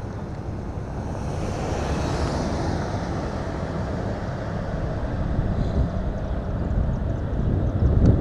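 Wind rushing over the microphone while riding a scooter, a steady rumbling noise with road rumble underneath.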